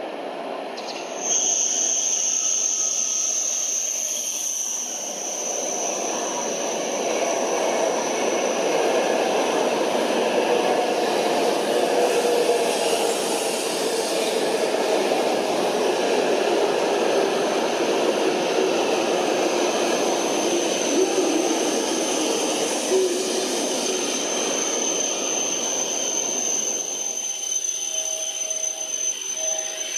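Hokuriku Shinkansen E7/W7-series train running along the station track. A rushing rumble builds over several seconds, holds, then falls away about 27 seconds in. A steady high whine sits above it from about a second in.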